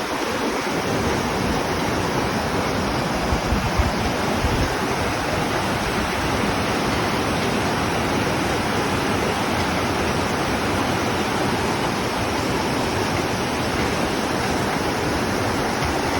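Water rushing steadily and heavily through a water-intake sand-flushing outlet as the sand is flushed out by hand-opened gate, a dense, even roar of flowing water.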